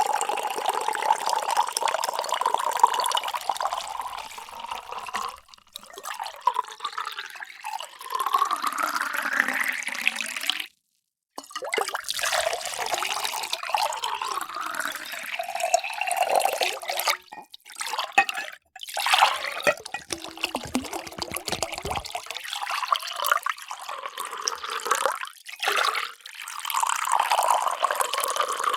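Water being poured into containers, several separate pours one after another. The pitch of each pour rises as its vessel fills, and there are brief breaks between clips, the clearest about eleven seconds in.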